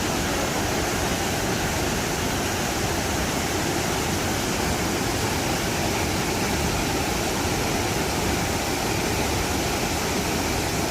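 Waterfall pouring into a plunge pool: a steady, unbroken rush of water.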